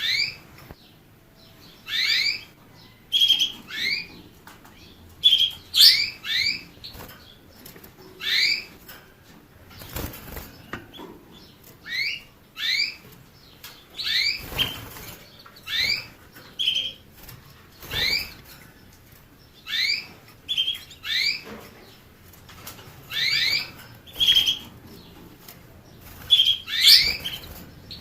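A finch calling in short chirps, mostly pairs of notes falling in pitch, repeated about once a second, with a few soft thumps in between.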